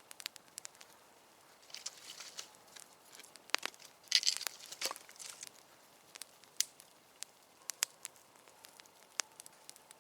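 Campfire of damp wood crackling, with sharp irregular pops throughout. Two short bursts of rustling and scraping, about two and four seconds in, as sticks are stacked on the fire in a well-style layout.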